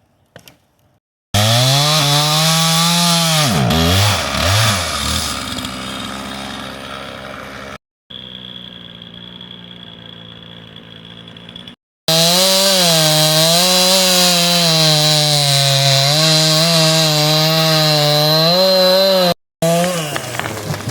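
Two-stroke chainsaw running at high revs, its pitch dipping and rising as the chain bites under load. About three seconds in the revs fall away and the saw runs quieter for several seconds, then it is back at full revs. The sound cuts off abruptly a few times.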